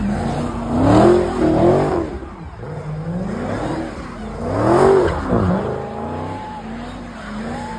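A car engine revving hard several times, its pitch climbing and dropping. The loudest rises come about a second in, just before two seconds and near five seconds.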